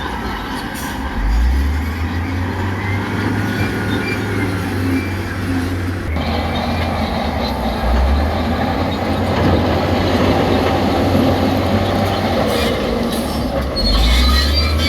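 Diesel heavy construction machinery at work, its engines running in a steady low drone that shifts in pitch now and then. About six seconds in the noise suddenly grows louder, and near the end a high metallic squealing comes in.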